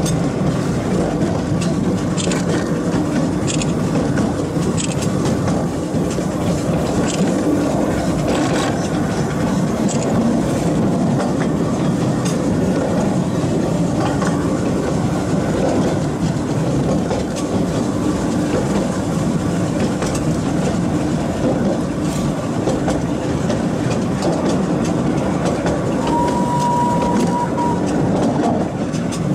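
Miniature steam railway train running along narrow-gauge track, heard from on board: a steady rumble of the wheels on the rails with scattered sharp clicks. Near the end a steady high tone sounds for about two seconds.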